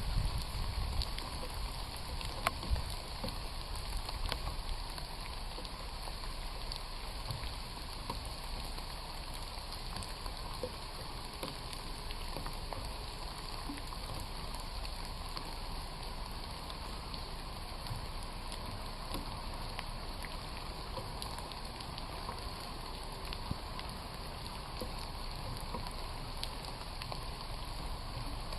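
Steady rain falling on a forest trail, with scattered individual drops ticking. A couple of louder knocks come in the first three seconds.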